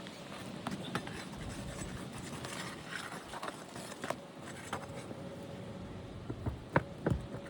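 Scraping and scattered clicking of hand work on asphalt roof shingles while getting at overdriven nails, with two sharp knocks near the end.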